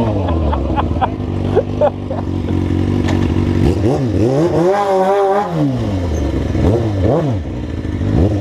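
Motorcycle engine idling, then revved by twisting the throttle: one longer rev held for about a second near the middle, wavering, then a few quick blips before it drops back to idle.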